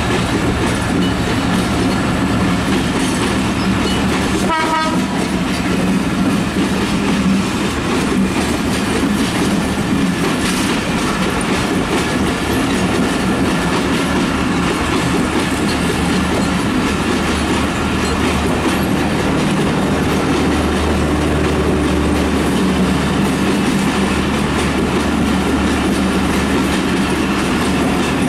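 Passenger coaches of a long PT INKA train rolling past close by: steady wheel-on-rail rumble with clickety-clack over the rail joints. A brief high tone sounds about four to five seconds in.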